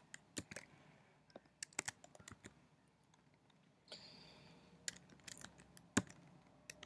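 Computer keyboard typing: irregular, quiet keystrokes with pauses, one louder sharp click about six seconds in.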